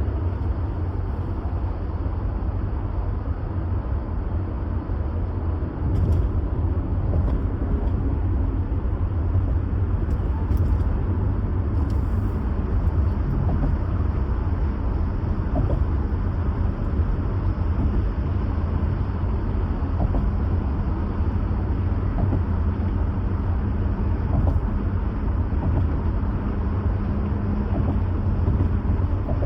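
A moving vehicle's steady low road and engine rumble; it grows a little louder about six seconds in.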